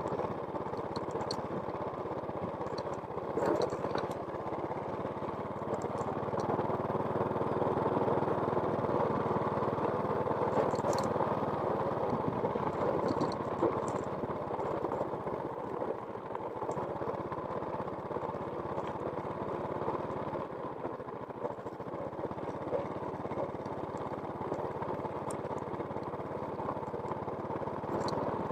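A small engine running steadily, with faint scattered clicks and rattles, swelling slightly in loudness for a few seconds and then settling.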